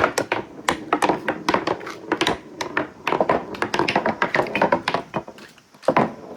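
Marbles rolling down a marble run track, clicking and tapping against the track and each other in a fast, irregular series of sharp clicks over a rolling rumble.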